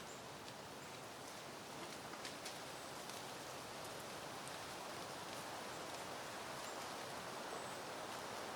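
Soft wind rustling through peony leaves and blooms, a steady hiss that swells gradually. A few faint, short, high chirps sound now and then.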